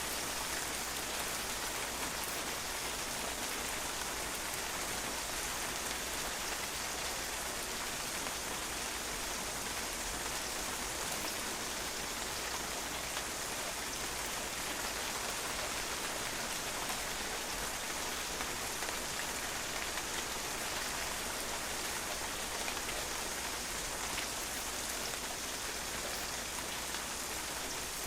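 Steady rain falling on a patio, a dense even hiss of drops splashing on the hard surface.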